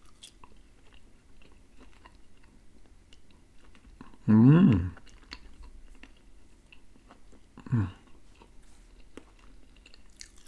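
Close-up sound of a person chewing a mouthful of baked salmon, with small wet mouth clicks. A loud hummed "mm" about four seconds in is the loudest sound, and a shorter one follows near eight seconds.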